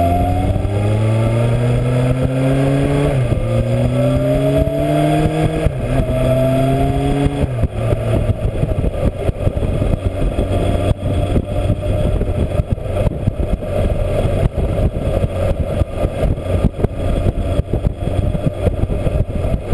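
Yamaha XJ600 inline-four motorcycle with a new exhaust, accelerating hard through the gears. The engine note rises and drops at each of three upshifts in the first eight seconds, then holds a steady cruising note under heavy rushing noise.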